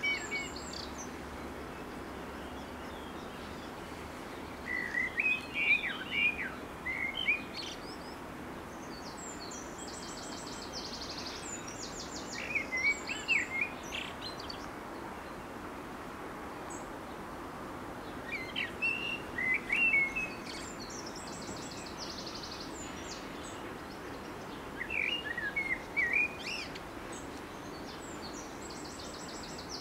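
A songbird singing, repeating a short phrase of warbled notes with a rapid trill about every six seconds, over a steady background noise.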